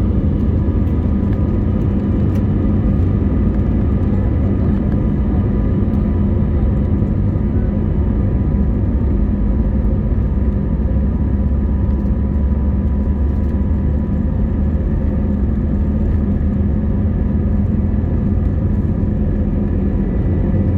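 Steady engine and airflow rumble inside the cabin of an Airbus A321neo airliner, with faint steady whining tones above it.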